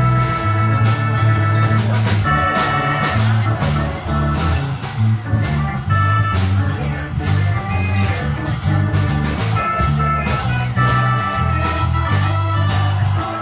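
Jazz organ trio playing: organ chords held over a moving bass line, with drums keeping time on the cymbals and regular drum strokes.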